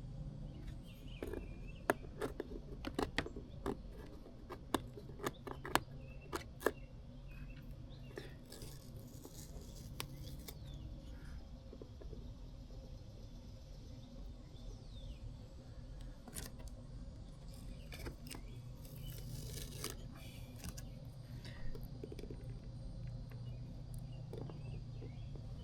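Small sharp clicks and taps of plastic tail-light pieces and a super glue bottle being handled, bunched in the first few seconds, with a couple of brief hissy rustles later, over a steady low hum.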